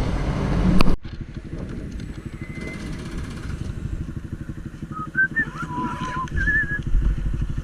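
Honda Titan 160 single-cylinder motorcycle engine running loudly, then dropping suddenly about a second in to a quieter, even idle. A few short whistle-like tones come in near the end.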